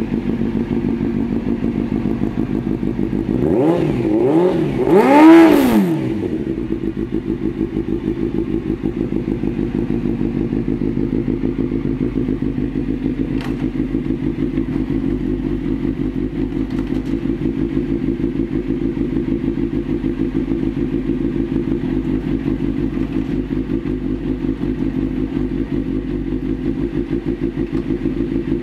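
Suzuki GSX-R750 inline-four engine idling steadily. A few seconds in, the throttle is blipped three times in quick succession, the revs rising and falling each time, with the last blip the highest and loudest.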